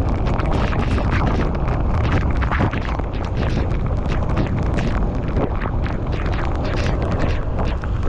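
Heavy wind rumble and buffeting on the microphone of a moving bicycle, a loud, steady low roar with constant flutter.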